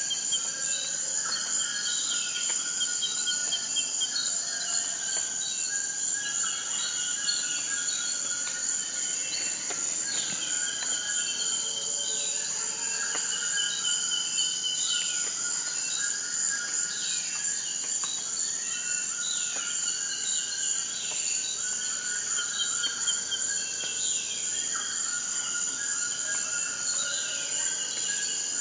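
Steady, high-pitched insect trilling, like crickets, with many birds calling over it: short repeated chirps and falling notes all through.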